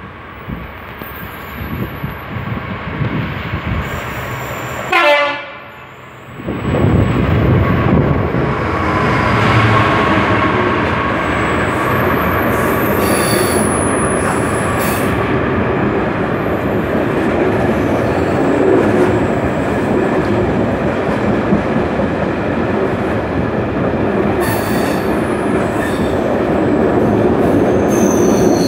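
Class 66 diesel locomotive gives one short horn blast about five seconds in. It then runs through, and a long train of loaded ballast wagons rumbles past with wheel squeal.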